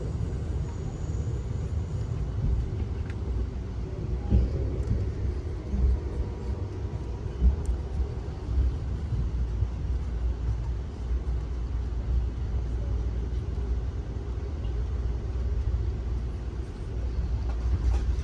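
Steady low rumble of a moving passenger train car rolling along the track, with a few short knocks.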